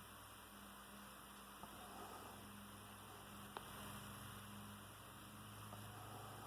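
Near silence: a steady low electrical hum with faint hiss, and two faint clicks, one about a second and a half in and one past the middle.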